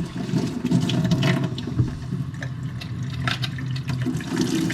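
Water running steadily from a tap into a sink, with a few light knocks.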